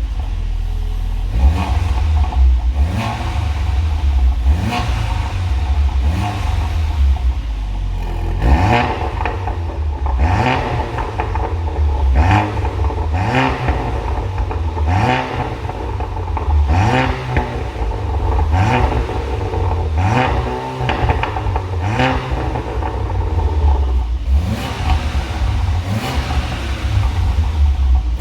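Audi A5 facelift engine revved through a variable (valved) aftermarket exhaust in repeated short blips, each a rising note, about one every one and a half to two seconds, over a low burbling idle.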